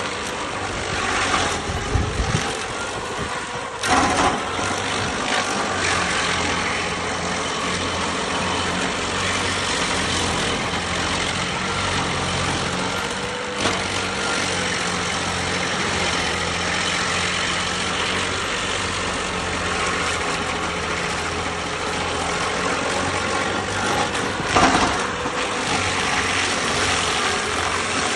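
Stump grinder's engine running steadily at a constant speed, with a few short louder knocks about four seconds in, midway and near the end.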